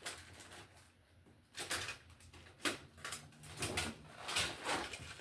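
Rummaging through a container of small hardware: an irregular run of clicks and clattering knocks, starting in earnest about one and a half seconds in.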